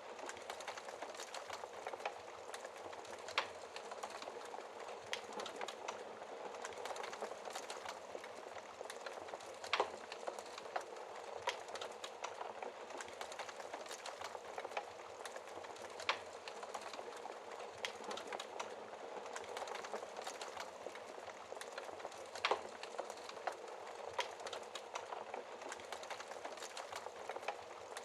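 Wood fire crackling in a fireplace: a steady hiss with frequent small pops, and a few louder snaps.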